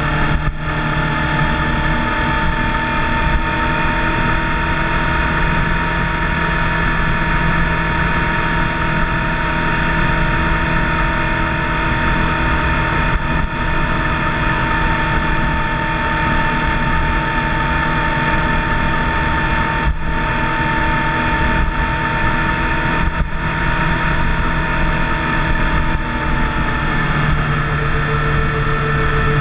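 Motorcycle engine running at a steady cruising speed. Its note falls slightly near the end.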